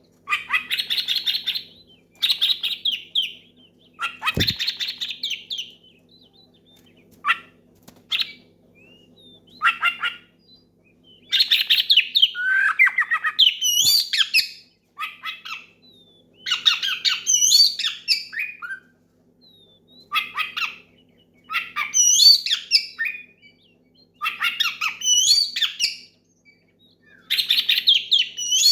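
Oriental magpie-robin (kacer) singing loudly, its challenge song to a rival. Phrases of one to two seconds follow each other after short pauses: fast runs of harsh repeated notes mixed with rising and falling whistles. A faint steady hum lies underneath, and there is a single low thump about four seconds in.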